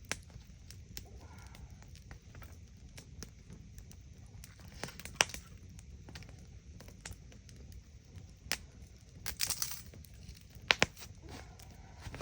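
Wood campfire crackling: irregular sharp pops and snaps, a few much louder than the rest, with a brief flurry of crackles about three quarters of the way through and a steady low rumble underneath.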